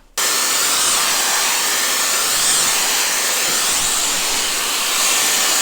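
Dyson hair dryer switched on about a quarter second in, then blowing at a steady loud rush on its second heat setting.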